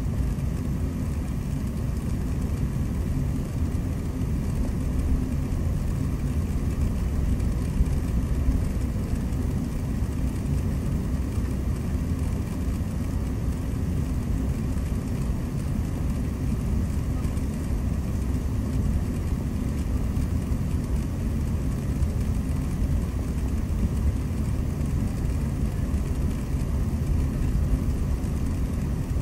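Steady low rumble inside a jet airliner's cabin before take-off: engine and air-conditioning noise, unchanging throughout.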